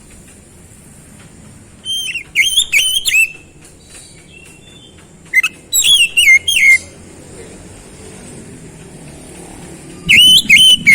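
Oriental magpie-robin (kacer) singing in three loud bursts a few seconds apart. Each burst is a quick run of clear whistled notes that swoop sharply up and down.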